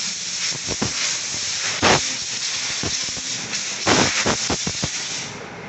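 Aerosol can of water-displacing oil spraying in a long hiss into a bicycle's bolts and derailleur pivots, with louder blasts about two and four seconds in. The hiss stops shortly before the end.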